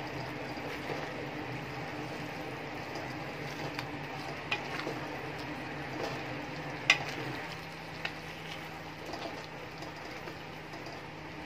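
Soya chunks frying in a thick masala in a metal wok, a steady sizzle, while a wooden spatula stirs them, with a few sharp clicks of the spatula against the pan, the loudest about seven seconds in.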